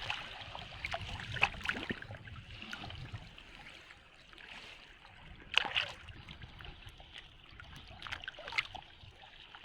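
Sea water sloshing and splashing around people wading with a drag net, with several sharp splashes, the loudest about halfway through, over a low rumble of wind.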